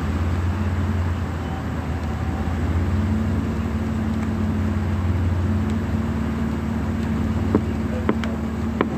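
A car running steadily on the road: a constant low hum with road noise, and a few sharp clicks near the end.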